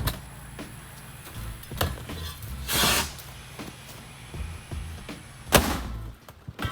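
A ring of fire firework rocket hisses for about half a second, then about two and a half seconds later a single sharp bang as it blows up the refrigerator. Background music with a low beat runs underneath.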